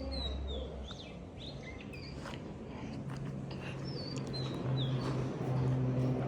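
Small birds chirping in short, repeated whistled notes, over a low steady hum that grows louder toward the end.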